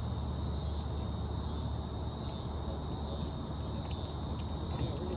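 Chorus of insects calling in high pulses that repeat about once a second, over a steady low rumble.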